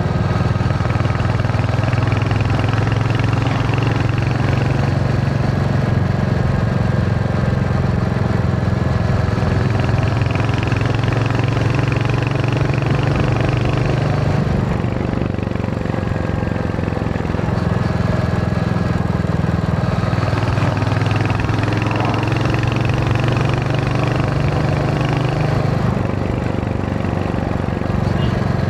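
Royal Enfield Hunter 350's single-cylinder engine running steadily under way, easing off briefly about halfway through and then pulling again.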